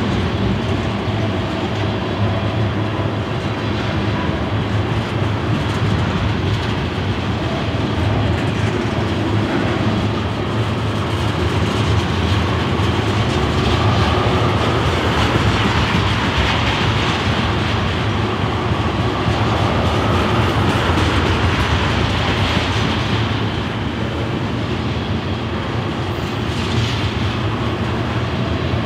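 Loaded ethanol tank cars of a freight train rolling past close by: a steady rumble and clatter of steel wheels on rail.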